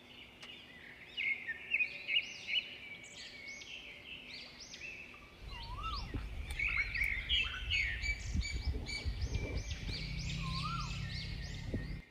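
Birds chirping: many short, quick chirps repeating over and over, with an occasional lower, wavering whistle. A low rumble comes in about halfway, and the sound cuts off suddenly at the end.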